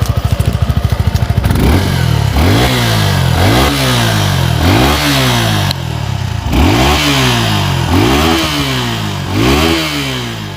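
Single-cylinder 250 cc motorcycle exhaust idling for a moment, then revved repeatedly, about seven quick throttle blips that rise and fall a little over a second apart.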